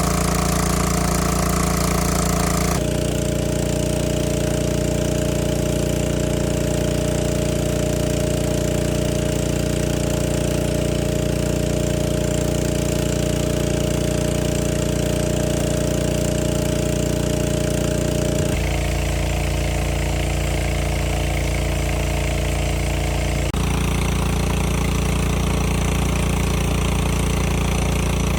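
Small boat engine running steadily, with a rapid knocking beat. Its tone changes abruptly a few times.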